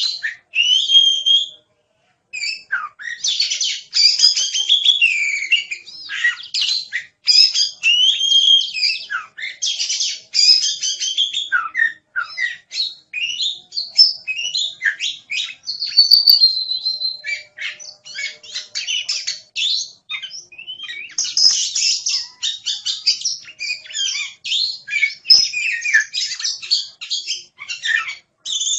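Oriental magpie-robin (kacer) singing vigorously: a fast, varied, near-unbroken run of whistles, trills and chattering notes, with only a couple of brief pauses.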